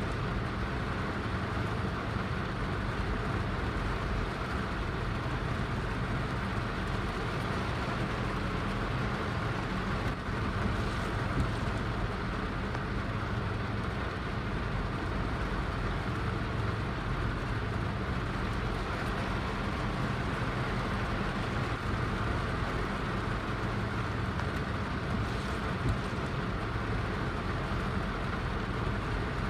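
Heavy rain falling in a steady, even wash of noise, unchanging throughout.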